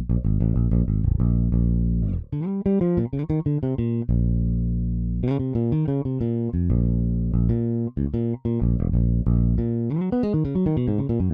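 Toontrack EZBass virtual electric bass playing a modern funk MIDI bass line on its own: runs of short, quick plucked notes broken by two long held low notes in the middle.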